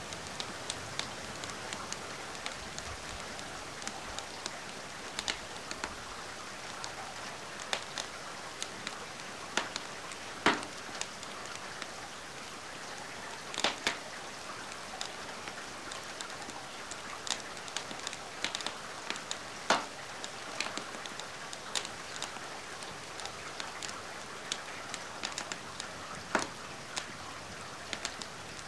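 Steady rain hiss mixed with a fireplace fire crackling: scattered sharp pops throughout, the loudest about ten, fourteen and twenty seconds in.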